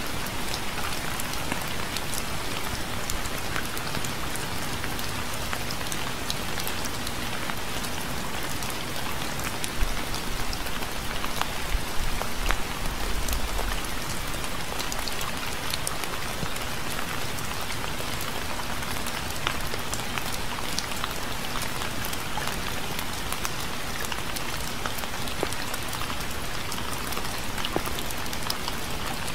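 Steady rain falling: an even hiss with scattered sharp ticks of individual drops. It swells briefly with a low rumble around the middle.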